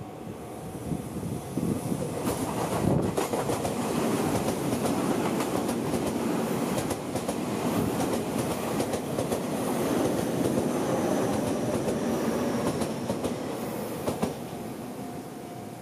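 Tobu 30000 series electric commuter train passing slowly at close range: a steady rumble of wheels on the rails, with clickety-clack clicks as the wheels cross the rail joints.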